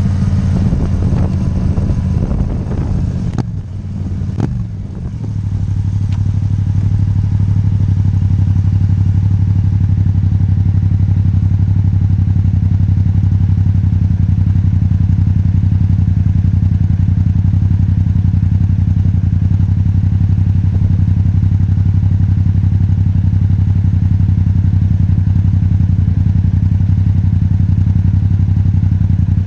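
Yamaha MT-07's parallel-twin engine through an Akrapovic titanium exhaust, held at raised revs at first, then the revs drop about four seconds in and it settles into a steady idle for the rest.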